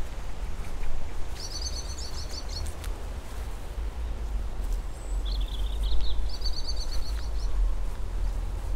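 A songbird singing in three short, high, stuttering phrases: one about a second and a half in, then two close together around five to seven seconds in, over a steady low rumble.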